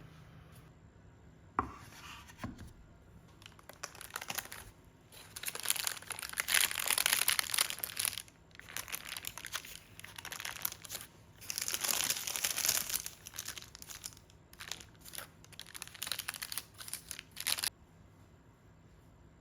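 Paper or plastic wrapping being crinkled and torn by hand in several bursts, after a single knock about a second and a half in.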